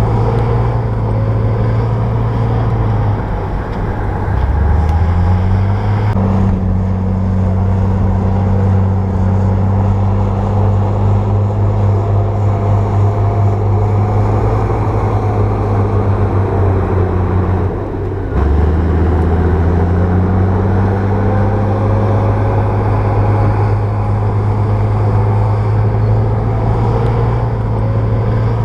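Bulldozer diesel engine running under load. Its pitch dips and then climbs back up twice, about four seconds in and again near eighteen seconds, as the engine revs back up.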